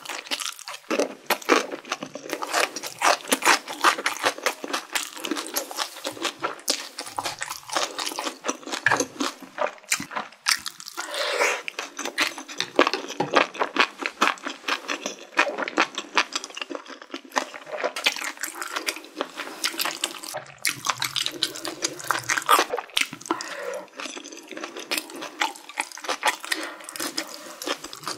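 Close-miked eating of spicy mala xiang guo: wet chewing and mouth smacks, with many sharp crunchy clicks, running on without a break.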